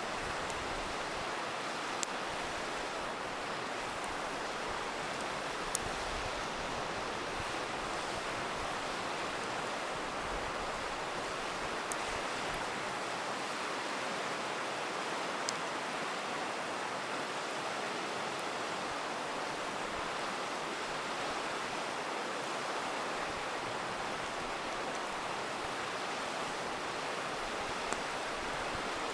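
A river rushing steadily, with about five sharp pops from a crackling wood campfire scattered over it.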